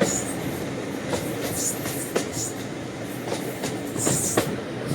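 A train running on the track: a steady rumble with irregular clicks and knocks from wheels and couplings, and a few brief high hisses.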